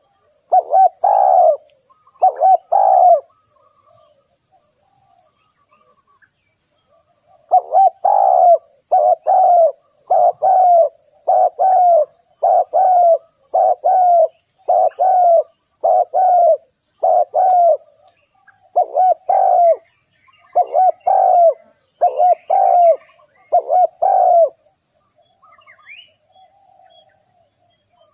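Spotted dove cooing its repeated phrase, the call of a decoy bird used to lure wild doves. A few calls come first, then after a pause of about four seconds a long, even run of calls at roughly one a second, which stops a few seconds before the end. Small birds chirp faintly.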